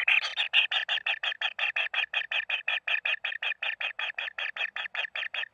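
Bird calling: a rapid, even train of short harsh notes, about eight a second, slowing slightly toward the end.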